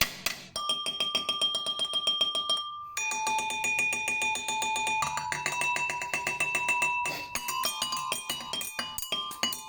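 Water-filled wine glasses struck in quick repeated taps, each ringing a clear high note whose pitch is set by the water level in the glass. The melody moves from note to note every second or two, switching faster near the end.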